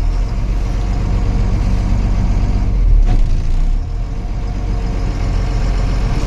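Truck engine running steadily, with a brief louder knock about three seconds in.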